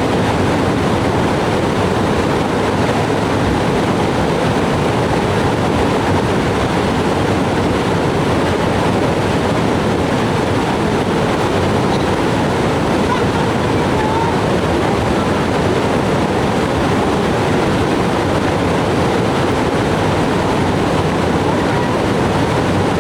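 Steady, loud rushing of water, an unbroken noise without distinct strokes or changes.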